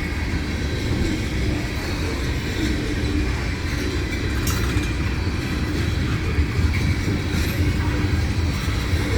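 Freight train of tank cars rolling past: a steady rumble of steel wheels on the rails.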